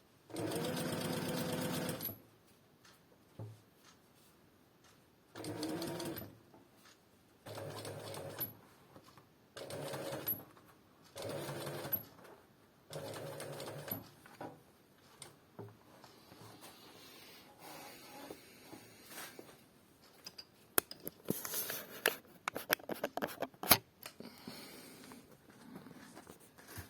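Industrial sewing machine stitching in six short runs of about one to two seconds each, with pauses between them. Sharp clicks and knocks of handling follow near the end.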